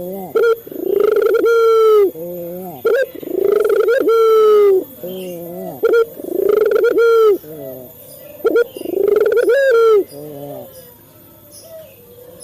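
A male puter dove (collared dove) cooing over and over. There are about four phrases, each a short note followed by a long coo, and the calling stops near the end.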